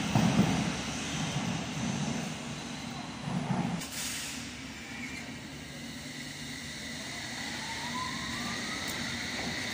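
A Thameslink train rumbles past for the first four seconds, then stops abruptly. After that a London Underground S Stock train runs along the platform with a quieter rumble, and its motor whine rises in pitch about three seconds later as it gathers speed.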